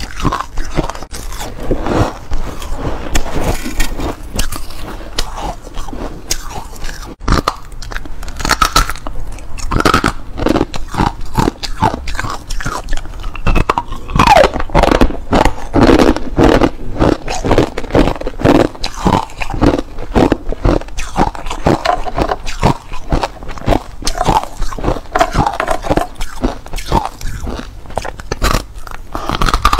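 Hard clear ice being bitten and chewed close to the microphone: rapid, irregular loud crunches and cracks throughout.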